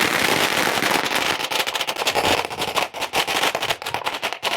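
A string of firecrackers going off in a rapid, continuous crackle of bangs, which thin out into more separate pops toward the end.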